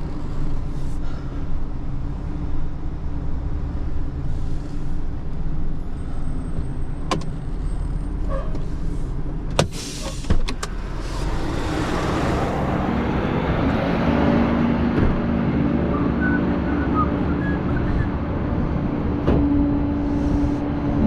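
Truck engine running steadily, with a few sharp clicks or knocks partway through; about halfway in the engine speeds up and holds at a higher, steady pitch.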